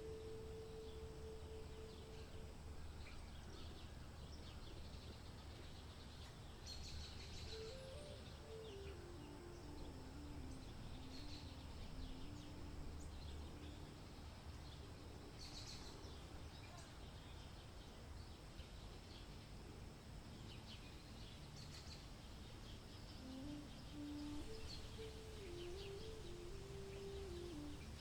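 Faint outdoor ambience: scattered small bird chirps over a steady low rumble, with a faint held tone that steps slowly up and down in pitch.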